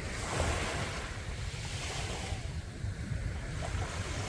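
Sea waves breaking and washing up a beach, the hiss swelling at the start, easing off and building again near the end, with wind buffeting the microphone underneath.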